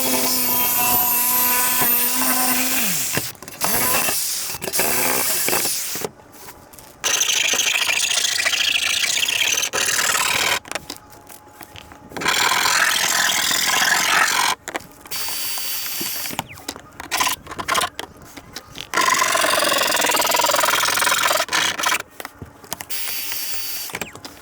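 Power tools cutting the opening for a rooftop AC in a van's steel roof. A motor whines at a steady pitch and winds down about three seconds in, followed by several separate bursts of cutting lasting a few seconds each.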